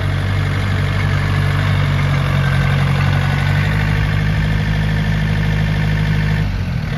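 John Deere 4600 compact tractor's three-cylinder diesel engine running steadily, the revs dropping a little near the end.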